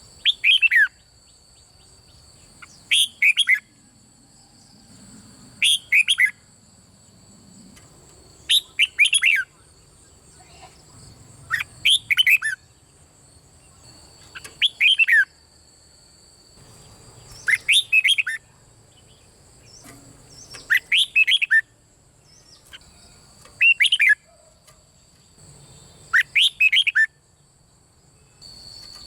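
Red-whiskered bulbul singing its short, quick whistled song phrase, repeated about every three seconds, ten times in all. A faint steady high-pitched whine runs underneath.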